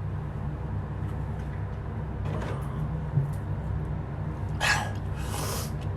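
A man breathing hard after eating superhot chilli peppers, with two sharp, noisy exhales near the end over a steady low hum.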